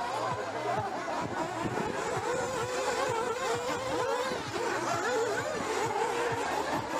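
Several nitro RC buggies' small two-stroke glow engines racing, their high-pitched whines overlapping and rising and falling as the cars rev and ease off around the track.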